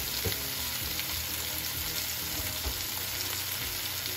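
Chicken wings and sliced ginger sizzling steadily as they pan-fry in a wok.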